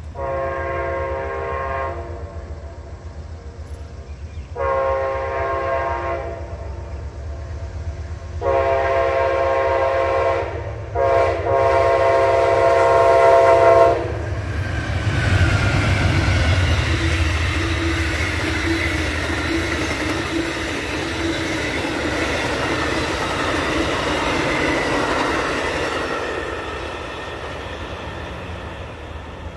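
A diesel locomotive's air horn sounds four blasts, the last two nearly run together and the last the longest, over the deep rumble of the locomotive's engine. The train then passes close by with a loud rumble of wheels on rail.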